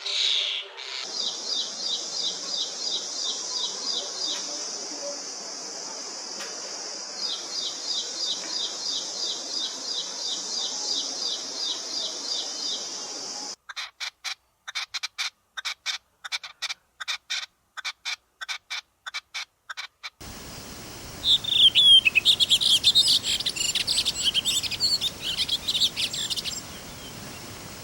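Wild birds calling and singing in several spliced clips. First a run of rapid high chirps at about six a second, which stops for a few seconds and then resumes; then short chirps separated by dead silence; then a fast, busy, high chattering song near the end.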